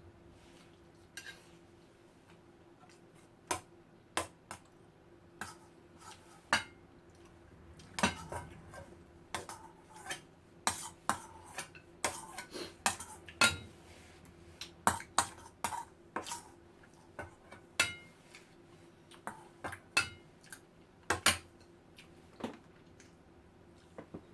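Spoon and fork clinking and scraping against a plate while eating, with irregular sharp clinks, often less than a second apart, over a faint steady hum.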